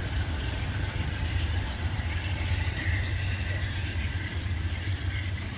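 Amtrak Downeaster passenger train running steadily out of the station, a continuous low rumble of the train's wheels and cars on the rails.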